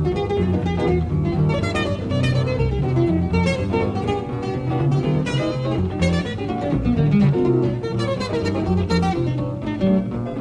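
Live jazz played on acoustic guitar: quick plucked runs of notes over a lower bass line, heard from a cassette-tape recording of the concert.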